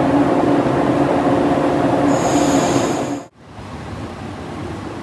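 Electric train running past at close range, with a steady motor hum and a high-pitched squeal a little over two seconds in. The sound cuts off suddenly after about three seconds, and a second electric train follows, moving along more quietly.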